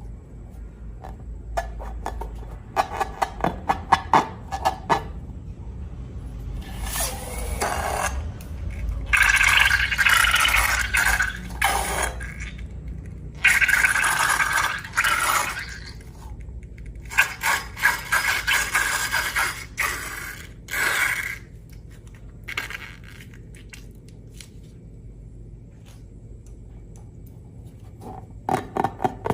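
Slime being worked by hand and tool: irregular scraping and squishing with quick clicks. Longer scraping stretches come in the middle, then a run of sharp clicks, then it goes quieter toward the end.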